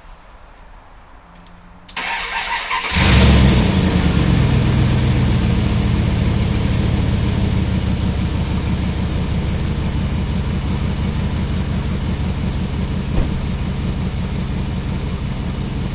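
2001 Dodge Ram pickup's gasoline engine cold-started: the starter cranks it for about a second, it catches about three seconds in with a brief rev flare, then settles into a steady fast idle that slowly eases down.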